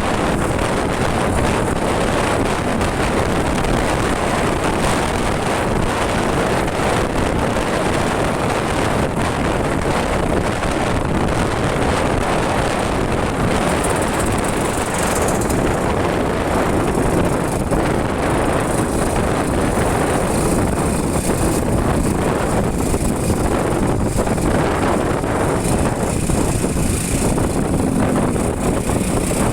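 Motorcycle riding noise: a steady rush of wind on the microphone over the engine and road noise.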